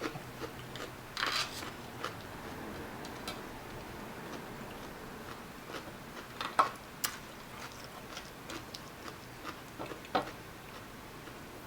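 Close-miked eating sounds: scattered small clicks and crunches from chewing and handling crab and crisp vegetables.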